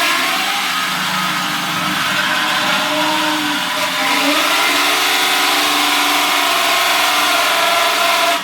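Electric drill running a hole saw into sheet steel, a steady loud motor whine with grinding, cutting off suddenly at the end. The hole saw is blunt and barely cutting through the steel, as the owner finds.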